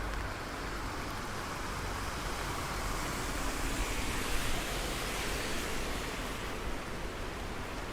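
Steady rush of falling rain, swelling a little around the middle.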